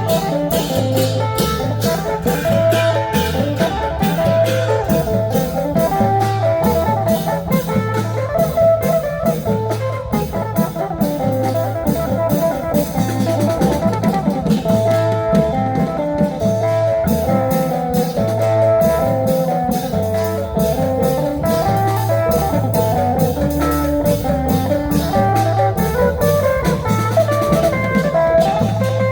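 Upbeat live band music, with a steady pulsing drum beat under a bright, plucked-sounding melody line and frequent sharp cymbal-like hits.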